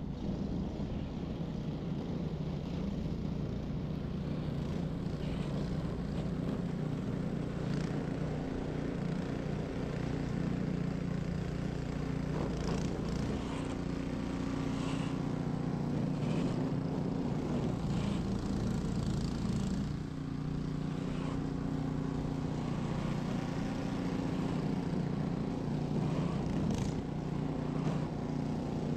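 Ariens 21-inch professional snow blower's engine running steadily under load while clearing a driveway, with a slight dip in level about two-thirds of the way through and a few short sharp sounds over it.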